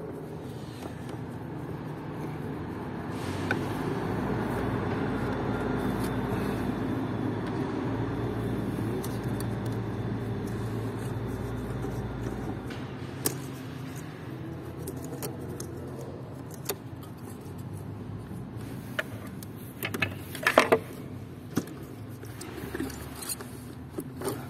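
Small metal clicks and clinks of screws and a screwdriver being worked, with a cluster of sharper knocks near the end. A steady low rumble runs through the first half and stops about halfway.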